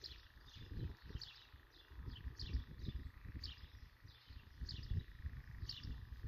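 A bird calling over and over, a short high falling chirp about every half second. Under it, wind rumbles in gusts on the microphone.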